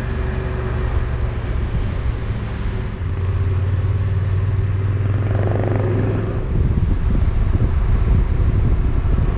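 Motorcycle engine running while riding, mixed with wind and road noise. The engine note holds steady for a few seconds, then the wind and road noise grows louder over the last few seconds.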